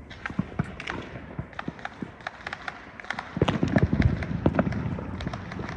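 Firecrackers going off in rapid, irregular strings of pops and cracks, much denser and louder from about three and a half seconds in.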